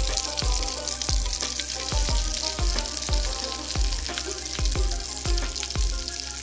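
Food sizzling as it fries in hot oil, a steady crackling hiss. Background music with a steady beat plays over it.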